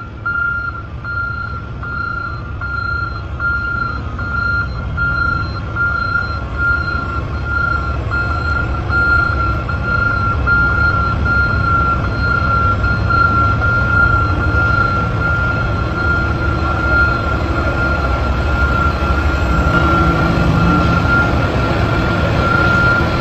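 Dump truck's reversing alarm beeping at a steady, regular pace over the low rumble of its running engine.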